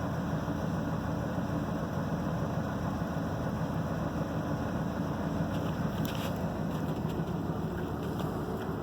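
A steady low mechanical hum, like an engine idling, with a few faint ticks about six seconds in.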